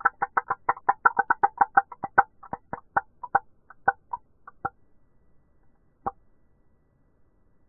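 Crackling pops of air bubbles bursting out of melting glacier ice: a dense, rapid crackle that thins over a few seconds to single pops, the sound behind the loud ambient noise of glacier fjords.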